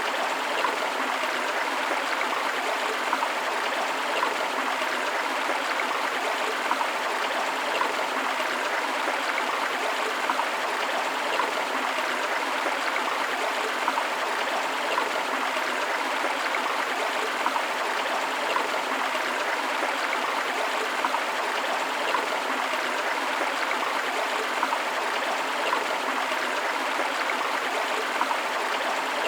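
A forest stream of flowing water rushing steadily over rocks, with small irregular splashes and gurgles.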